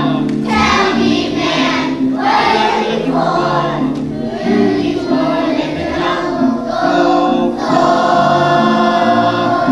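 A group of young voices sings the chorus of a musical number in unison over instrumental accompaniment. Near the end it settles into a long held final note.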